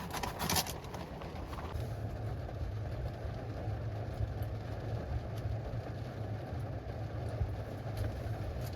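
Steady low hum of a car engine idling, heard from inside the car, with an even rushing noise over it; the hum grows stronger about two seconds in.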